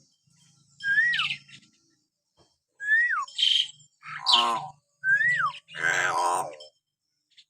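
Hill myna whistling: three times a short whistle that rises and then drops sharply, each followed by harsh, rasping calls.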